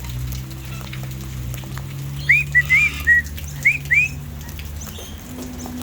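Six short, clear whistles, each rising in pitch, come in quick succession about two seconds in, over a low steady hum.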